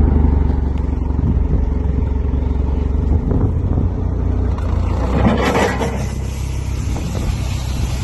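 Engine idling with a steady low rumble. A little over halfway in, a loud hiss joins it and cuts off sharply near the end.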